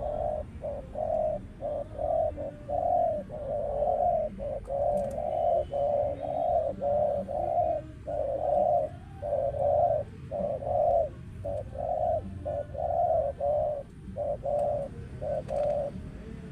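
Caged spotted dove cooing: a long run of short, low coo notes with brief gaps between them, stopping shortly before the end.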